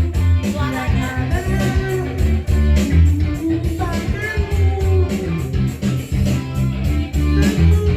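Band music: guitar playing a melodic line over a strong bass and a steady drum beat.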